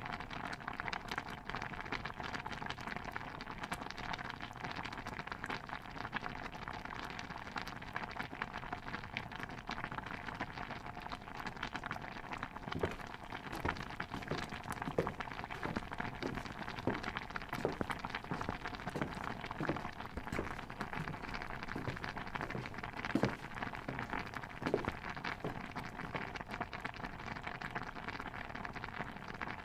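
Kitchen ambience soundscape: a steady, dense fine crackling like a bubbling pot. From about thirteen seconds in until near the end it carries a run of soft knocks, roughly one a second, like chopping on a board.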